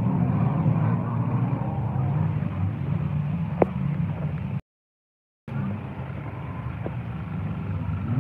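Car engine running steadily, with one sharp click about three and a half seconds in. The sound cuts out completely for about a second just past the middle.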